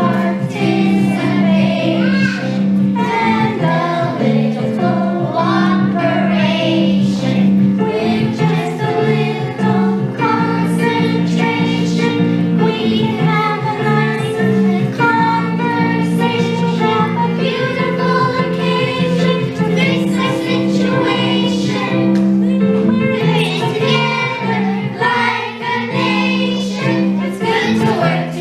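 A group of children singing together to an instrumental accompaniment, with steady held low notes under the voices.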